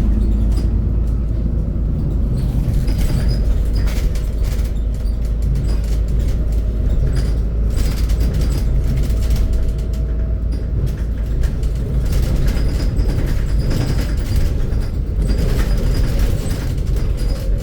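Scania Citywide 12LF city bus under way, its diesel engine and drivetrain running steadily, heard from inside the passenger cabin, with a faint whine that rises gently in the middle.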